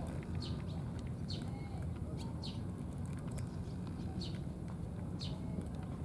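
A bird calling over and over, short high chirps falling in pitch about once a second, over a steady low background rumble. Faint clicks of a cat chewing dry food come through in the first half.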